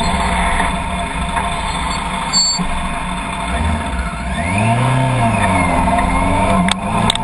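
Car engine running while driving, its pitch rising and falling once about halfway through, with a sharp click near the end.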